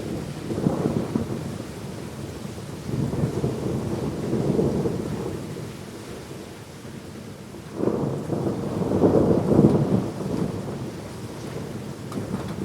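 Thunder rumbling in three long rolling swells, about a second in, around three to five seconds in and again near eight to ten seconds in, over the steady hiss of rain.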